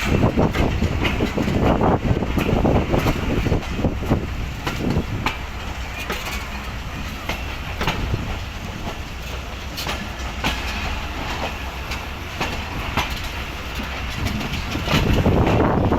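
Passenger train rolling past at low speed, its coach wheels clacking and knocking irregularly over rail joints under a steady rumble. The sound swells again near the end.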